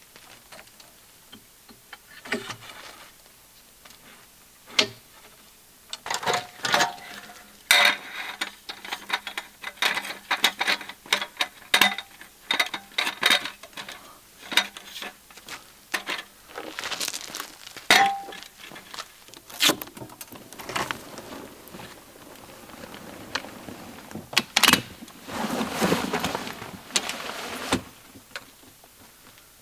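Camp gear being handled: a run of irregular clinks, knocks and clatter, busiest in the middle, with a stretch of rustling near the end.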